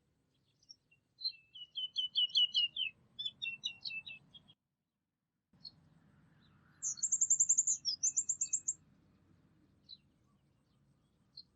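Small birds singing: a quick run of repeated chirps falling in pitch about a second in, then, after a second where all sound drops out, a very high, fast trill sung twice, with a few single chirps around it.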